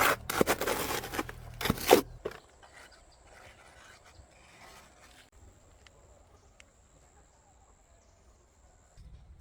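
Loud scraping and crunching noises in quick bursts for about two seconds, then quiet with a faint, steady high-pitched tone.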